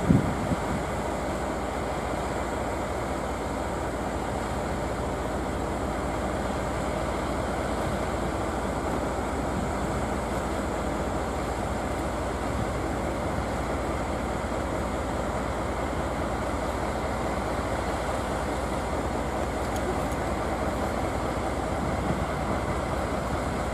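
Steady hum and hiss of trains standing at a station platform, a steam locomotive among them, with no distinct knocks, whistles or departures.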